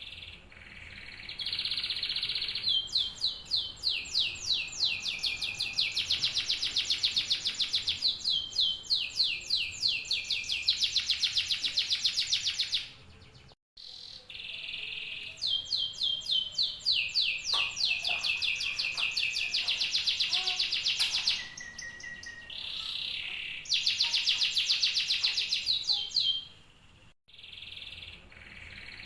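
Male domestic canary singing: a long, loud song of fast trills, each a rapid run of repeated notes, moving from one trill pattern to the next every second or two, with two brief breaks.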